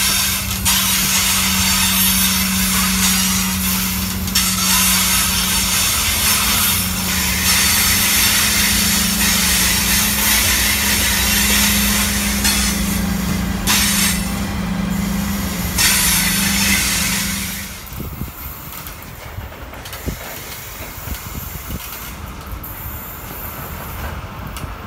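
Coal train of hopper wagons rolling past close by: a steady rattle and rumble of wheels on rail with a steady low hum and scattered clicks. A locomotive in the middle of the train goes by partway through, and about three-quarters of the way in the sound drops away as the train draws off.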